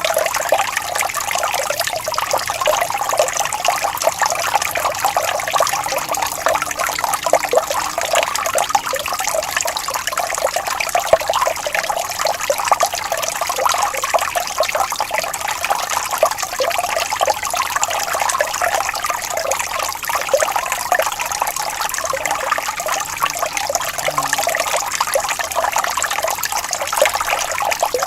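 Small stream of water flowing and trickling steadily, a continuous bright splashing babble with no pauses.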